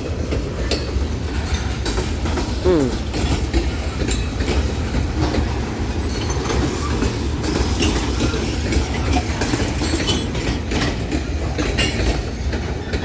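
Freight train rolling past at close range: a steady low rumble with the clickety-clack of wheels going over rail joints.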